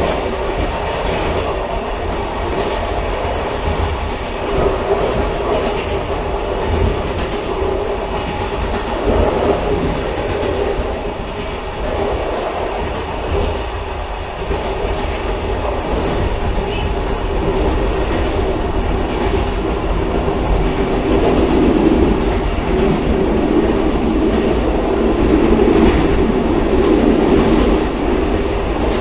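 Railcar running steadily on the rails: a continuous rumble and rolling noise with faint clicks from the wheels over the track, at an even level with no approach or fade.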